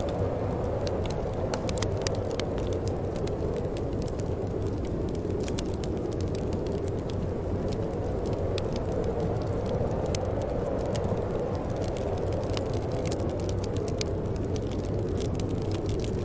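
Steady wind blowing with a low rumble, over the scattered pops and crackles of a wood fire burning.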